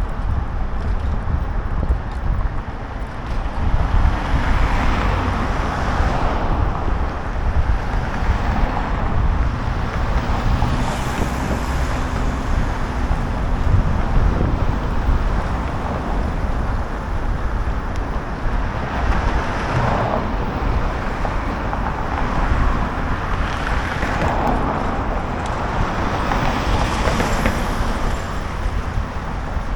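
Wind buffeting the microphone on a moving bicycle, over road traffic noise, with vehicles swelling past several times.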